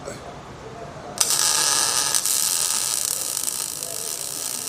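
Welder arcing while laying a spot weld on a muffler: a steady, harsh hiss that starts suddenly about a second in.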